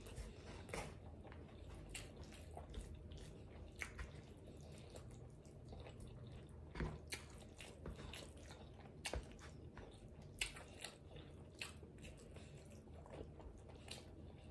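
A person chewing a rice burrito bowl close to the microphone: faint wet mouth sounds with many scattered soft clicks.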